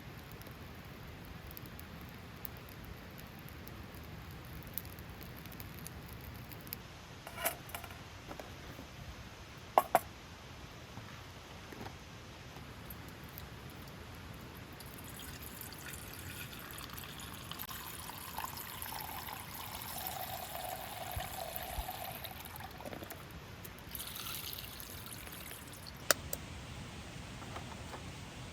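Liquid being poured into a container for several seconds in the second half, the pitch of the pour falling as it goes on. A few sharp knocks or clicks come earlier and near the end.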